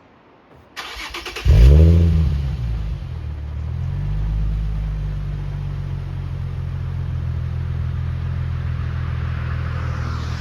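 2008 Infiniti G35x's VQ35HR V6 through a Stillen catback exhaust starting up: the starter cranks briefly, the engine catches about a second and a half in with a loud rev flare that falls away, then settles into a steady idle.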